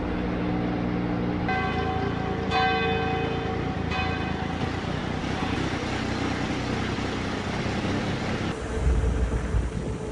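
Bells ringing: a few strikes in the first half, each ringing on and fading. Wind buffets the microphone near the end.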